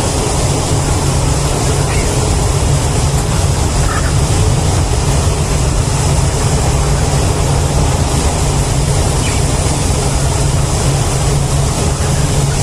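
Steady, loud machine-like noise: a dense low hum with a high hiss over it, unchanging throughout.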